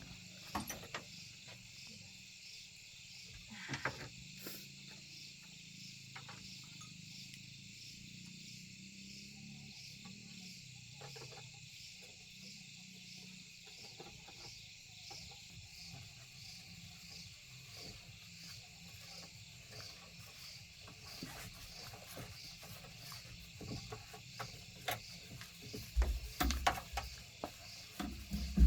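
Crickets chirping steadily in an even, pulsing rhythm, with scattered knocks and clinks now and then and a few low thumps near the end.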